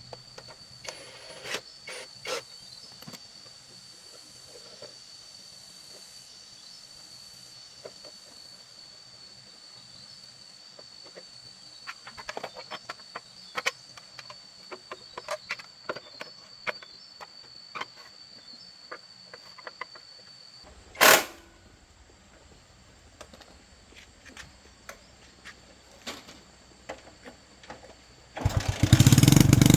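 Scattered light clicks and taps of hand work with tools and parts, over a steady high whine that stops about two-thirds of the way through, followed by a short loud burst. Near the end a motorcycle engine starts and runs loudly.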